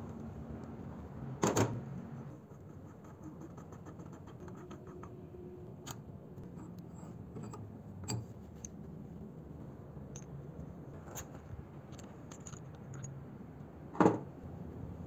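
Metal clanks and small clicks from taking apart a rusty hand-drill chuck: a loud clank from the wrench on the chuck nut about a second and a half in, a run of light ticks soon after, and a sharp metal knock near the end.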